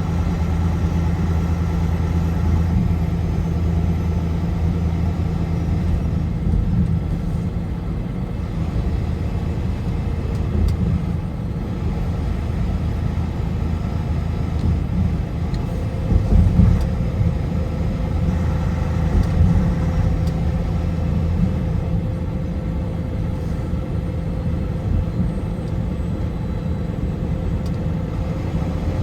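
Car driving at highway speed: a steady low drone of engine and road noise, with a higher steady whine joining about halfway through and a brief louder bump just after it.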